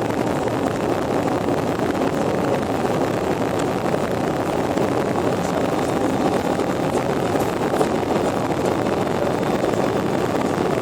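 Steady, even rush of an Airbus A350-900's Rolls-Royce Trent XWB jet engines and airflow, as heard inside the cabin in flight after takeoff.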